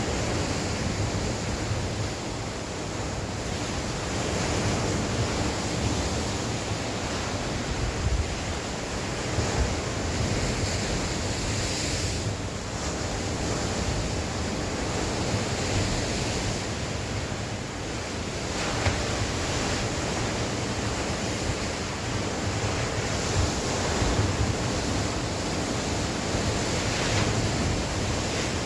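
Sea waves washing and breaking on the shore in continuous, irregular swells, with wind buffeting the microphone.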